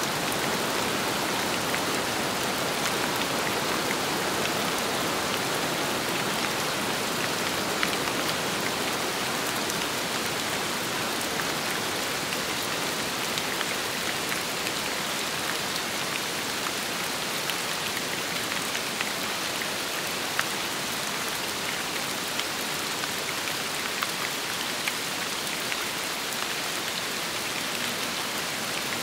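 Steady rain falling on a surface, a dense even hiss with many scattered individual drop ticks.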